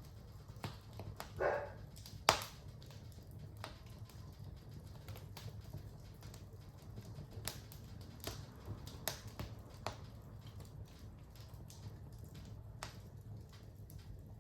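Fire in a fireplace crackling, with scattered sharp pops over a steady low rumble. A brief hiss comes about a second and a half in, and one loud pop follows just after two seconds.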